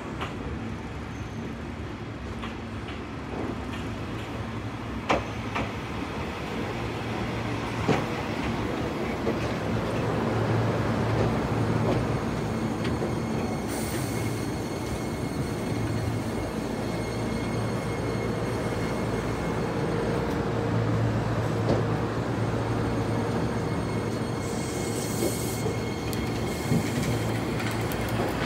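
Iyotetsu 3000-series electric train pulling slowly into a station platform, its motors and wheels running with a low hum that grows louder as the cars draw alongside. There are a few sharp clicks over rail joints and brief high-pitched wheel or brake squeals.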